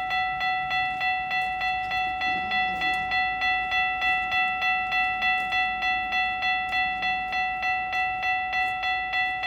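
Railway crossing warning bell at a walkway crossing ringing in rapid, evenly spaced dings as a train approaches.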